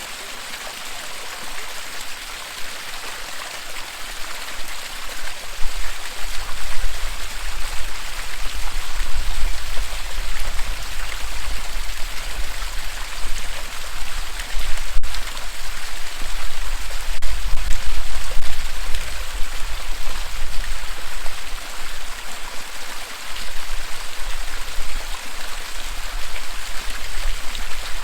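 Waterfall's steady rush of falling water, with a low rumble underneath that swells and fades from about five seconds in.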